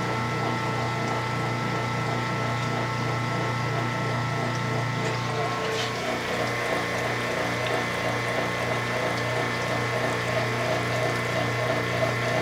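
1993 Kenmore 80 Series washing machine pumping out its water on the drain: the motor hums steadily while the drain pump runs, clear again after something briefly caught on its impeller. About six seconds in, a rougher, fluttering sound joins the hum.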